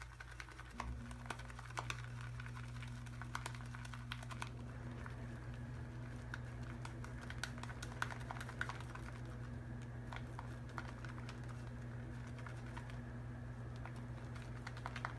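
Shaving brush swirled in a lather bowl, building shaving-soap lather: a continuous run of soft, wet clicks and crackles. A steady low hum comes in about a second in.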